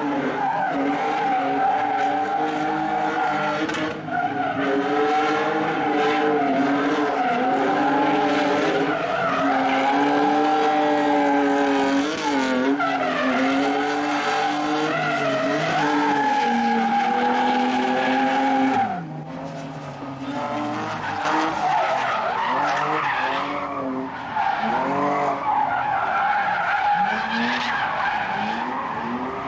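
Drift cars' engines held at high revs, the pitch wavering up and down as the throttle is worked, over tyre squeal and skidding. About two-thirds of the way through, the revs fall away sharply and the sound drops, then the revving and tyre noise pick up again.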